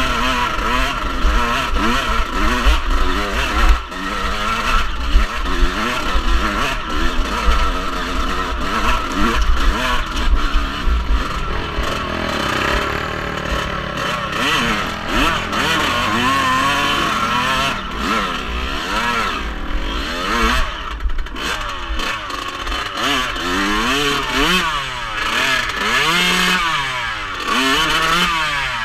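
Off-road vehicle engine being ridden, its pitch rising and falling again and again as the throttle is worked, with wind rumbling on the microphone.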